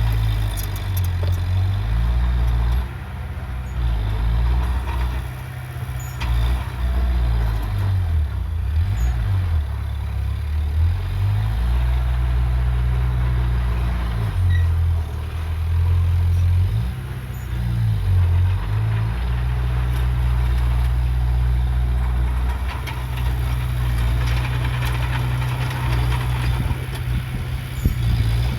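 Heavy diesel engine of earthmoving machinery running, its low note dipping and coming back up several times.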